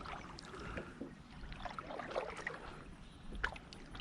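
Faint splashes and drips of water around a kayak on a pond, with scattered small knocks.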